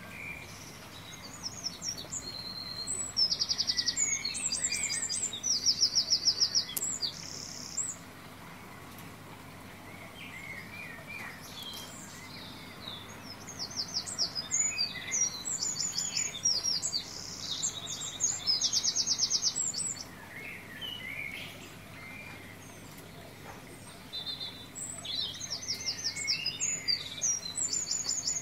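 Songbirds singing: bouts of fast, high trills a few seconds long, with softer scattered chirps in between.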